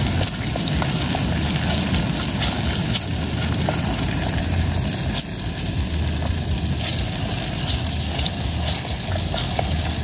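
River shrimp frying in oil in a wok: a steady sizzle with scattered small pops and crackles, over a low rumble.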